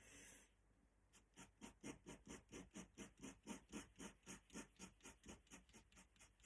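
Faint scratching of an ink pen on paper: one short stroke, then about a second in a run of quick, even back-and-forth strokes, about four or five a second, as in hatching or scribbling in an area.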